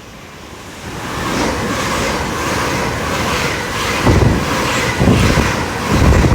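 GWR Class 802 intercity train passing through at speed without stopping: a rushing noise of wheels on rail that builds about a second in, with a regular beat, and wind buffeting the microphone in low thumps.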